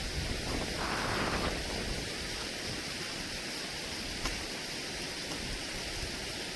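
Steady rain falling, an even continuous hiss, with a single faint click about four seconds in.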